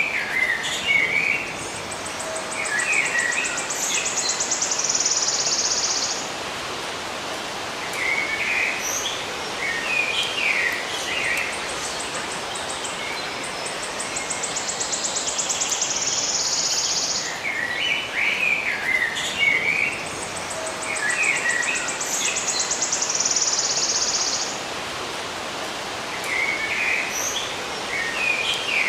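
Songbirds chirping in short twittering bursts, with a high, pulsing insect buzz that swells for a few seconds and then stops, over a steady outdoor hiss. The same pattern comes round again about every fourteen seconds, like a looped nature recording.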